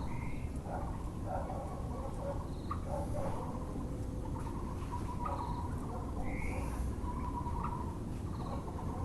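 Birds calling over a steady low background rumble: brief high chirps come now and then, and a Muller's barbet repeats its lower calls.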